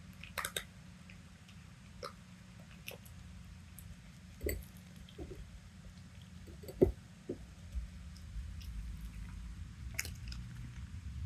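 A cat eating, with scattered soft chewing clicks and small taps, over a faint steady low hum.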